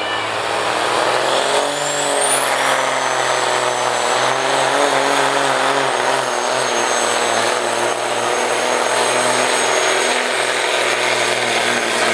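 A pulling truck's engine running hard under load during a pull, steady and loud, with a high whistle that rises over about the first two seconds and then holds steady.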